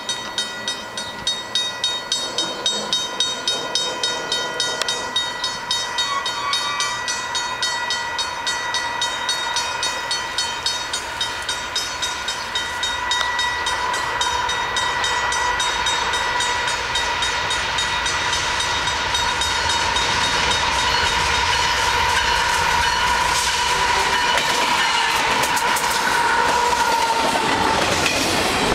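Canadian Pacific intermodal train led by two GE diesel locomotives, an ES44AC and an AC4400CW, approaching and passing, its engine rumble and wheel-on-rail noise building to a steady rush as the loaded container cars go by. A steady ringing tone with a regular beat of about two a second sounds over it; the beat stops about halfway through and the tone ends shortly before the end.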